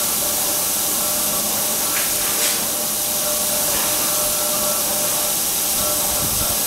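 Plasma cutting torch on a CNC machine hissing steadily as it cuts, with a faint steady whine underneath.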